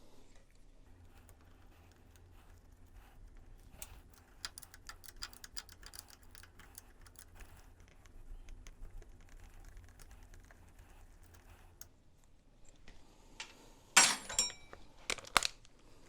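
Light, irregular clicking and tapping of hand work on small metal motorcycle parts, over a faint low hum, then a few loud metallic knocks near the end.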